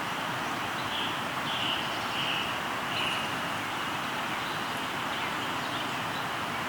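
Steady rush of a flowing river, with a bird calling four short notes in quick succession about a second in.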